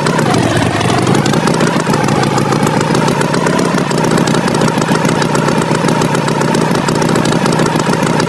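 Tractor engine running steadily at an even level, with a wavering whine above the low engine hum.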